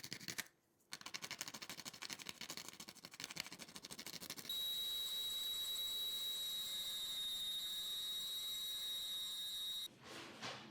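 Rapid, even scrubbing strokes of a small brush on the model's parts. About halfway through, a small motor takes over with a steady high-pitched whine, then cuts off suddenly near the end.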